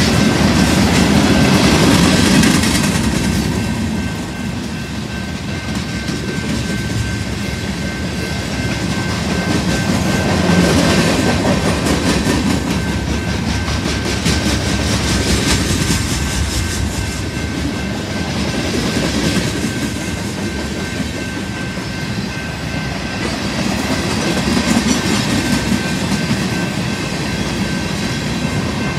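Freight cars of a BNSF manifest train rolling past close by, their steel wheels rumbling and clicking over the rails. The sound swells and eases every few seconds as cars go by.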